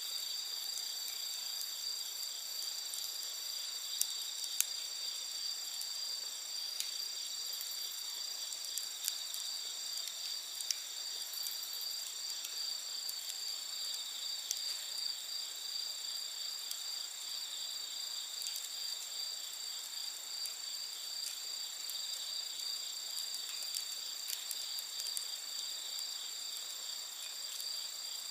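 A steady chorus of crickets and other night insects, several high shrill tones held without a break. Now and then a sharp pop or crackle from a wood campfire cuts in, a few times in the first half.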